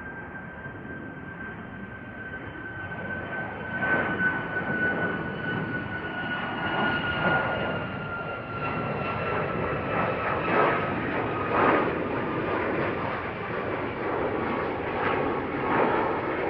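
Boeing 737 MAX 8's CFM LEAP-1B turbofans at takeoff power on the runway: a high engine whine that slowly falls in pitch, growing louder about four seconds in, with a crackling jet-blast rumble surging on top.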